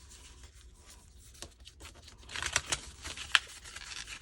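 Sheet of copy paper being handled and folded: light rustling and crinkling, louder in the second half, with one sharp tap about three seconds in.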